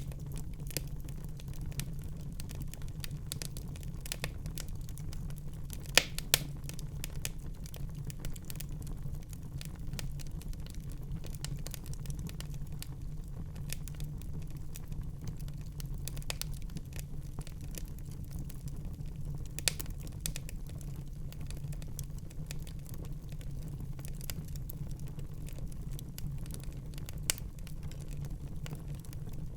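Wood fire burning in a fireplace: a steady low rumble of the flames with frequent small crackles and occasional louder pops, the sharpest about six seconds in.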